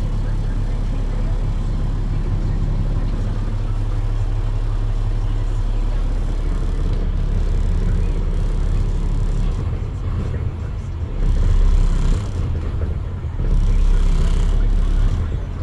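Diesel engine of a 2017 Mack Granite garbage truck running steadily, then rising in level twice in the second half, once for about a second and once for about a second and a half.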